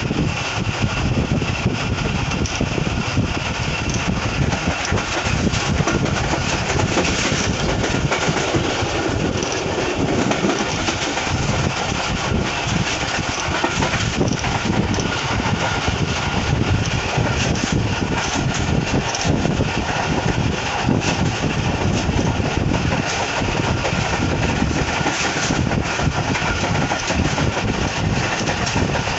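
Passenger train running at about 100 km/h, heard from an open coach doorway: a steady loud rumble and clatter of wheels on the rails.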